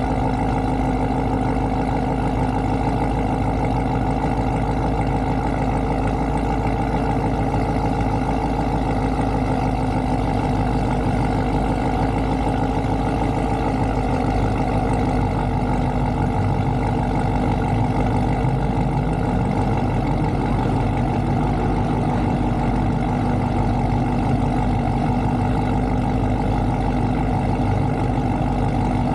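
Car engine idling steadily, a constant low drone with no revving.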